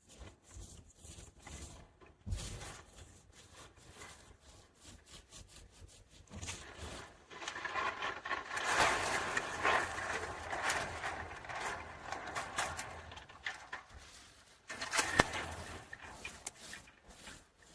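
Rubbing and scraping against wood, with many small knocks and clicks. It is busiest and loudest through the middle, and there is one sharp knock near the end.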